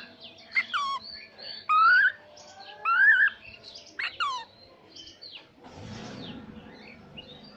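Pet cockatiel whistling: a series of short, rising whistled calls, about four in the first four and a half seconds, followed by a brief soft rustle about six seconds in.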